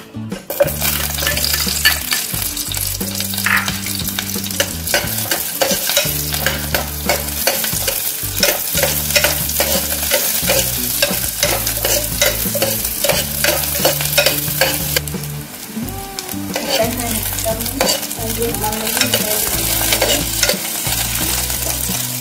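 Shallots, garlic and red chillies sizzling as they fry in hot oil in a pot, stirred with a utensil that clicks and scrapes against the pot throughout.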